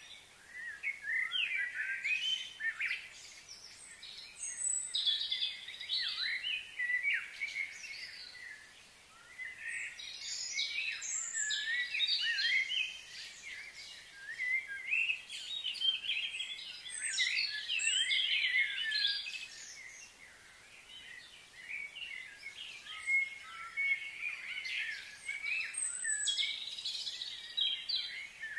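Small birds chirping and singing in quick, overlapping bouts of high, twittering notes, with short lulls between bouts.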